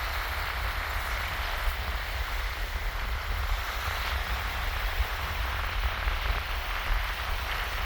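Gentle shallow waves washing and fizzing over a sandy beach in a steady hiss, with a low rumble of wind on the microphone.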